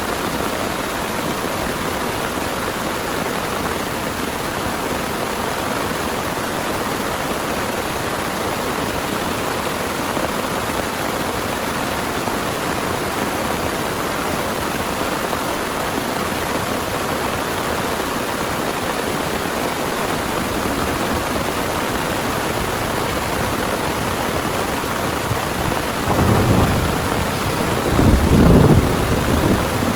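Heavy rain pouring steadily, with two deep rumbles of thunder rolling in near the end.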